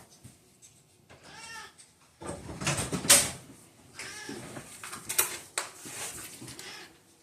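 Domestic cat meowing several times, each call an arching wail, begging to be fed. A couple of sharp clatters come through between the meows.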